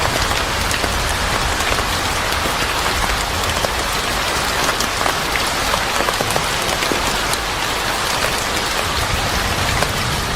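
Steady rain falling, an even hiss with many scattered sharp ticks.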